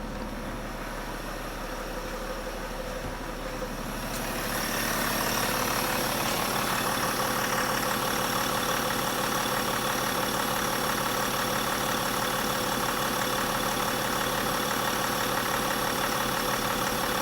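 BMW M57TU2D30 3.0-litre straight-six turbodiesel idling steadily. It grows louder about four seconds in, then holds level.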